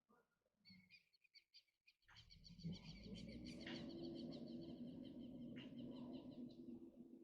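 Faint rapid chirping trill from an animal, with a low steady hum coming in about two seconds in.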